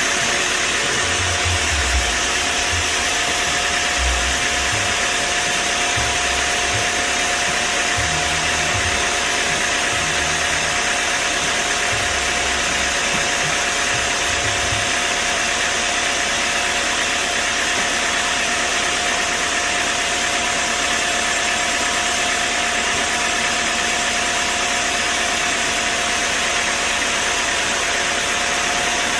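Sawmill machinery running steadily, with a constant whine over a loud, even noise. A few low thumps come in the first half.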